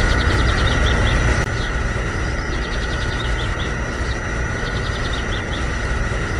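Small electric motor of a DIY mini tractor model running with a steady whine, a little quieter after about a second and a half. Birds chirp in short repeated phrases over it.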